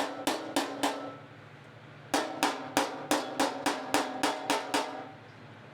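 Body hammer striking the 2023 Palisade's sheet-steel fender over a dolly, at about three to four blows a second, each with a short metallic ring. There is a brief run of blows, a pause of about a second, then a longer run of about a dozen blows that stops near the end. The blows are working out the dented, grooved ridge.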